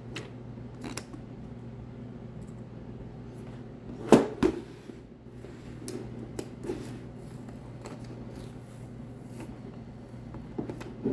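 Hands working a sticker and its transfer tape on a plastic welding helmet: scattered small clicks, taps and rustles, the loudest a knock about four seconds in, over a steady low hum.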